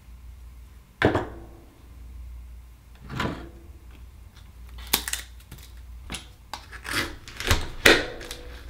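Akoya oyster shells and hand tools being handled: a string of sharp clicks, knocks and scrapes, sparse at first and closer together in the second half, as the next oyster is worked open.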